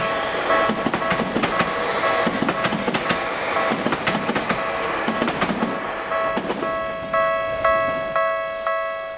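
Tokyu Series 6020 electric train pulling away, its wheels clicking over rail joints and points as the rumble slowly fades. From about seven seconds in, a repeating electronic chime about twice a second grows louder.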